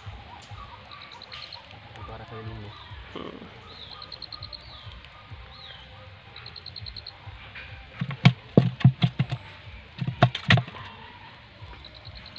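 Birdsong: short, rapid high trills repeated every few seconds, with a few falling high notes. About eight seconds in comes a cluster of loud sharp knocks, and another shorter cluster about ten seconds in.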